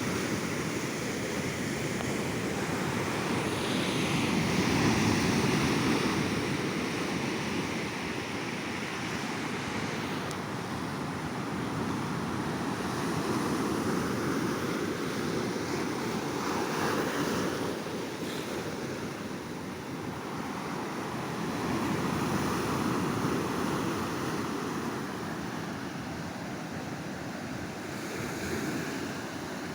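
Ocean surf breaking and washing up a beach, rising and falling in slow surges every several seconds.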